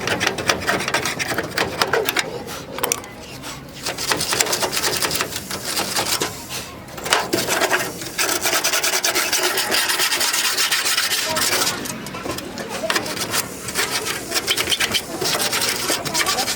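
Abrasive rasping of a hand file or sanding tool worked over the rusty sheet metal of a car door, in long runs of rapid strokes broken by a few short pauses.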